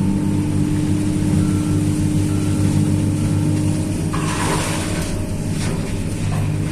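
Tracked excavator's diesel engine running steadily under work, heard from inside the cab, with a brief hissing rush about four seconds in.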